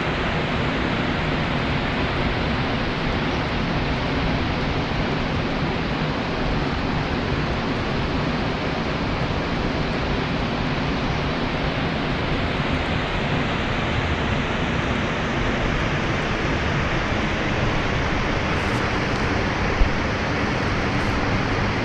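Waterfall, falling water making a steady, even rush with no pauses. One short click near the end.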